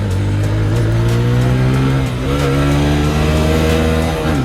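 TVS Apache RTR 160 4V's single-cylinder engine accelerating hard, its pitch climbing through a gear, dropping at an upshift about two seconds in, then climbing again and dropping at another shift near the end.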